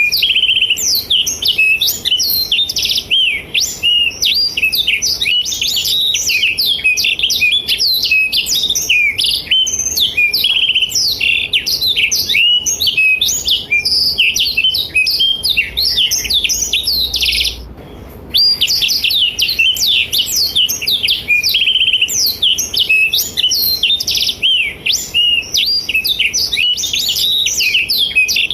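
Black-throated canary (blackthroat) in full, continuous song: a dense, fast run of high chirps and twittering trills, broken by one short pause about two-thirds of the way through.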